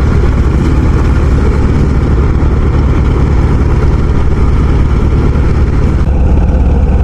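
Heavy farm-machine engine running steadily and loud, deep in tone, during the tow of a harvester stuck in mud; its higher sound thins out about six seconds in.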